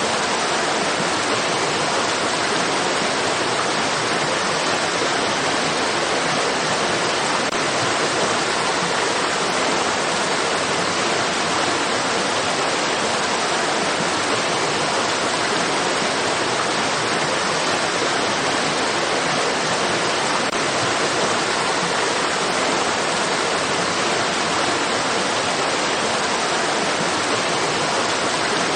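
Flowing stream water rushing steadily, an even hiss with little deep rumble that does not change.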